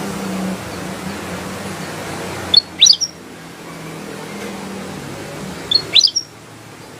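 Ruby-throated bulbul (kutilang emas) calling: two short, sharp, rising whistled phrases about three seconds apart, over a steady low hum.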